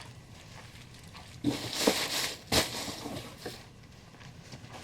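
Rustling of packaging and items being handled, with a sharp knock about halfway through and a smaller one a second later.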